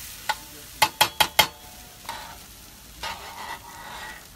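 Hash browns frying with a steady sizzle, a metal utensil striking the cooking surface four times in quick succession, then scraping and stirring them around.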